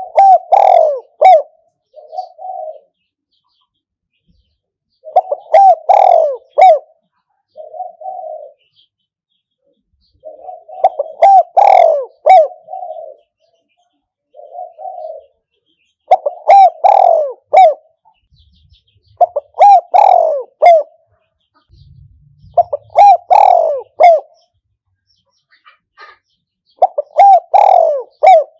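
Spotted dove cooing loudly and close: a decoy male giving about seven repeated call phrases a few seconds apart, with a softer single coo between each of the first few phrases.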